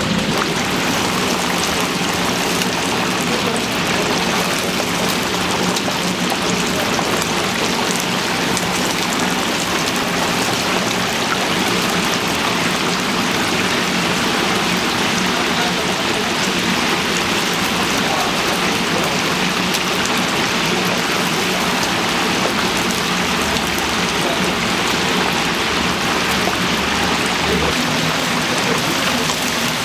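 Chicken deep-frying in a vat of hot oil: a steady, dense crackling sizzle.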